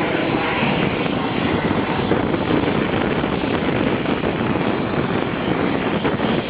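Hongdu L-15 twin-engine jet trainer flying past, its engines making a loud, steady jet noise.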